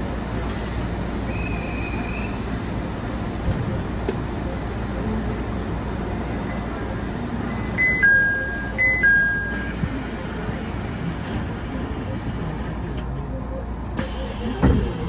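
Steady running rumble of a Senseki-Tōhoku Line HB-E210 hybrid train under way. About eight seconds in, a two-note falling electronic tone sounds twice in quick succession, and near the end there is a short knock.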